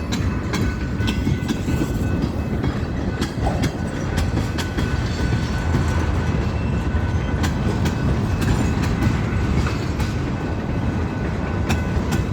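Freight cars of a long train rolling past, steel wheels clicking irregularly over the rail joints over a steady rumble, with faint steady high tones above.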